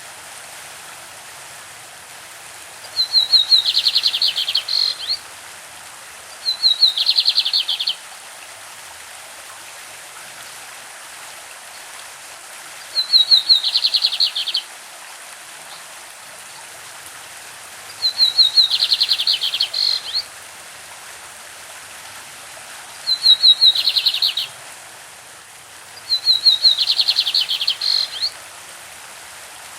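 Lined seedeater (bigodinho) singing its classic song: six phrases, each a quick run of high repeated notes running into a buzzier trill, about 1.5 to 2 seconds long with pauses between. Under it the steady rush of a stream.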